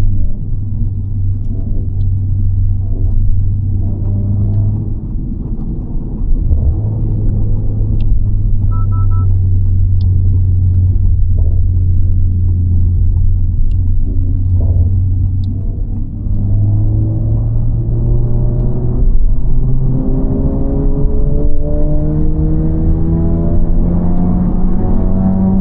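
Honda Civic FL5 Type R's turbocharged 2.0-litre four-cylinder, with an HKS Legamax exhaust and aftermarket downpipe, heard from inside the cabin as a steady low drone while cruising. From about two-thirds of the way in, the pitch climbs steadily as the engine accelerates and revs rise.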